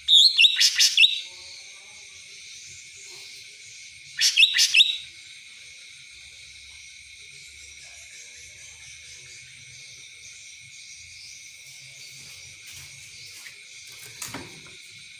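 Cucak ranting songbird singing two short bursts of rapid, chirping notes, about a second each: one at the start and another about four seconds in. A steady high hiss runs underneath, and a faint short call comes near the end.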